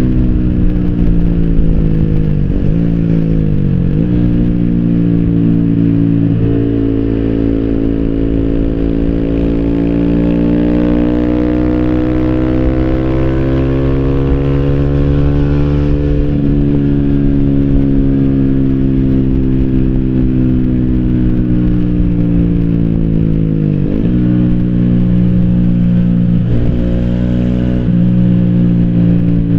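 2014 Yamaha YZF-R125's single-cylinder four-stroke engine under way, breathing through an Arrow racing header and Arrow slip-on silencer with its dB-killer fitted. Its pitch climbs slowly as it pulls, falls back, and dips sharply for a moment several times as the rider changes gear.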